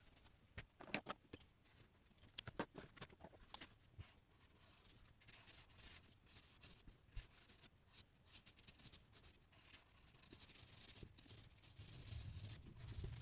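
Faint scratching of a drawing tool on paper: a cluster of short strokes and taps in the first few seconds, then lighter strokes, with a low rumble rising near the end.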